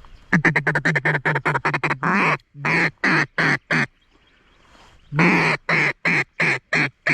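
Hunter's duck call blown in loud quacking sequences: a fast run of short quacks, then several longer, drawn-out quacks. After a pause of about a second comes another run of longer quacks. This is calling to bring passing ducks back in.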